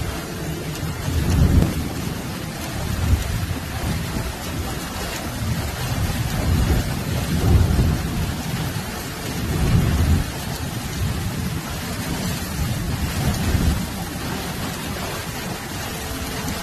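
Heavy rain pouring steadily in a thunderstorm, with several low rumbling swells that come and go every few seconds.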